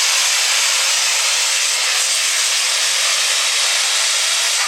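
Super stock diesel 4x4 pulling truck at full throttle on a pass: a loud, steady rushing engine noise with no let-up.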